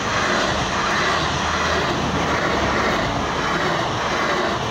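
AGC regional train passing close by: a steady, loud rush of the train's running noise.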